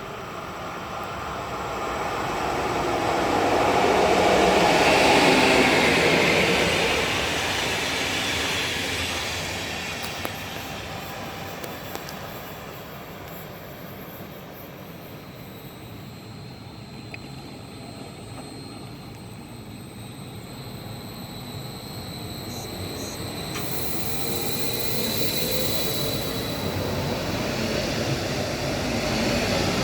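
A train passing through a station, its rumble swelling to a peak about five seconds in and then fading away. Near the end the rumble builds again as more rail traffic approaches.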